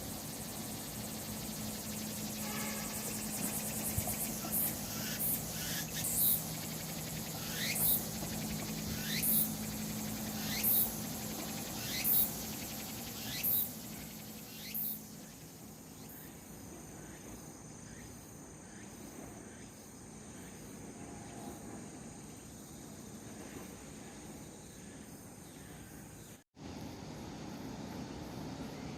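Summer insects calling. A run of about eight loud sweeping calls, roughly one every second and a half, stops about halfway through, leaving a steady high-pitched insect drone. The sound drops out for a moment near the end.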